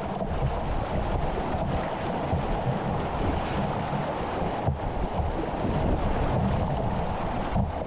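Steady rushing of shallow river rapids around a kayak, with wind buffeting the microphone.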